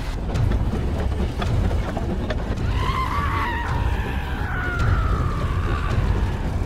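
Steam train running with a steady low rumble and occasional clicks from the wheels on the track. About three seconds in, a high squeal wavers and then slides slowly down in pitch over about two seconds.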